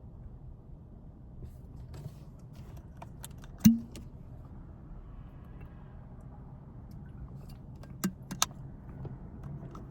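A steady low rumble with a loud sharp click a little under four seconds in and two smaller clicks about eight seconds in.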